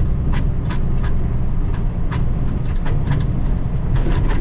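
Heavy diesel log truck's engine running steadily under way, with a series of irregular sharp rattles or knocks over the drone.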